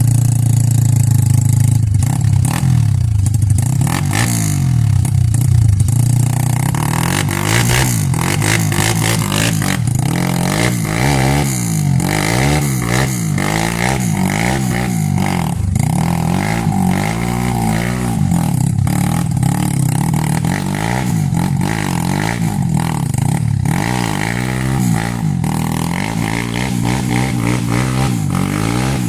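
Trail motorcycle engine revving hard again and again, its pitch rising and falling over and over, with some clatter, as the bike works at a slippery climb.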